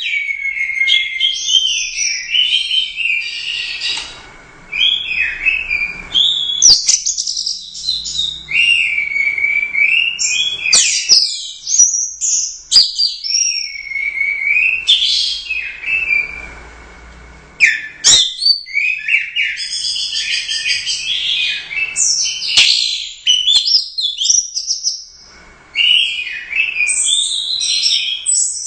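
Orange-headed thrush singing a long, varied song of rapid whistled phrases, loud and nearly continuous, broken by a few short pauses.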